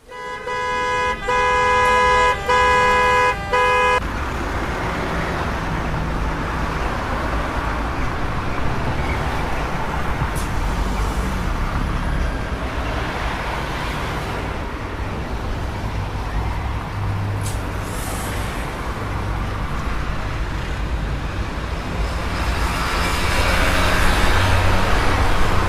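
A car horn blares for about four seconds, broken by a few short gaps, followed by steady road traffic: engines and tyres of passing vehicles, getting louder near the end.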